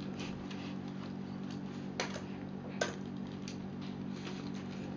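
A few light clicks and knocks of plastic Lego Technic parts being handled, two of them sharper about two and three seconds in, over a steady low hum.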